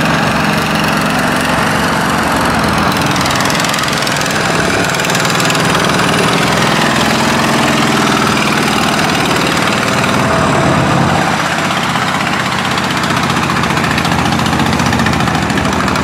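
Tractor engine running under load, its pitch rising and falling as it is worked.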